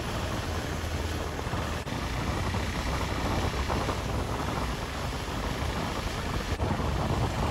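Motorcycle running on the road, a steady rush of engine and road noise with no clear changes.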